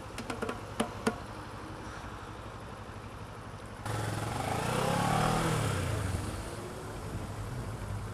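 Motorcycle riding sound: a steady engine hum with a few sharp clicks near the start. About four seconds in the sound jumps louder and an engine's pitch rises and then falls away.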